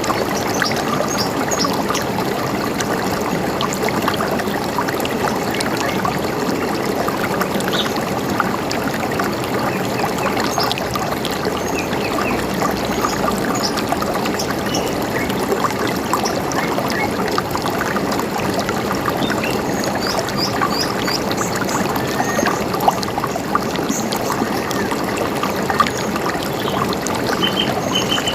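River water running steadily, with scattered short bird chirps and calls throughout and a quick run of three notes near the end.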